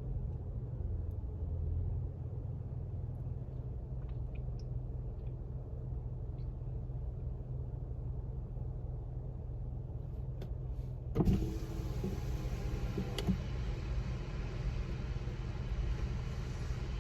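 Car idling, heard as a steady low hum from inside the cabin. About eleven seconds in there is a sudden knock, and a loud, steady hiss starts and runs on.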